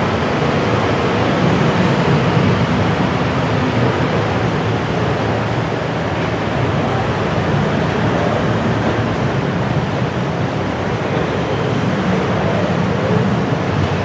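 Steady city traffic noise: cars and motorbikes running, blending into an even hum with no single sound standing out.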